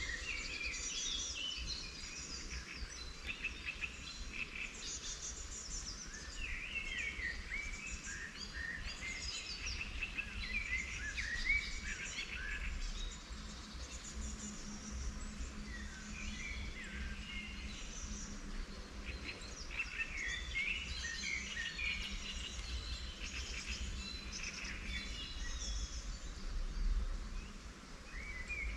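Several wild songbirds singing and chirping over one another in quick, overlapping phrases, with a steady low rumble underneath.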